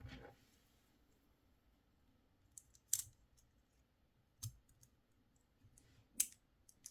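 A few faint, sharp plastic clicks and taps from a Hailfire Droid action figure's missile launcher being handled and tapped to fire. There are four separate clicks spread over several seconds, the clearest about three seconds in and again near the end.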